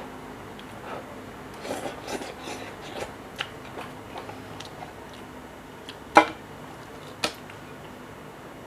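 Light scattered clicks and taps, a cluster of them about two seconds in, then two sharper clicks near six and seven seconds, over a faint steady hum.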